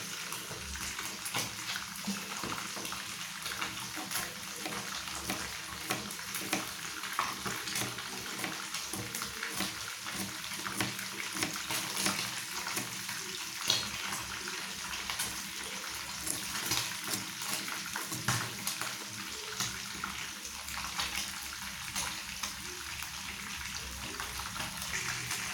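Pieces of mackerel tuna deep-frying in hot oil: a steady sizzle with dense, irregular crackles and pops.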